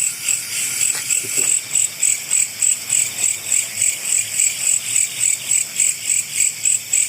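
Insects chirping in a steady, high-pitched rhythm of about three to four pulses a second.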